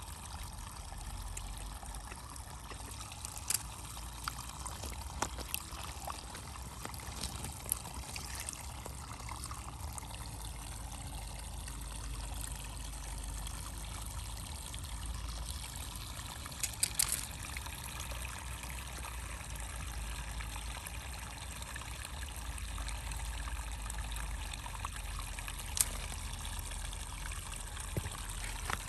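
Water trickling steadily, with a few sharp clicks scattered through and a small cluster of them about halfway through.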